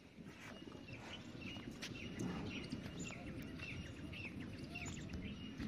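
Birds chirping over and over, short hooked calls coming about twice a second, with fainter lower calls and a steady low background noise.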